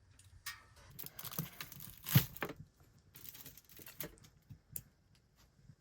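Irregular rustling and crinkling with a few light clicks, the loudest crackle about two seconds in.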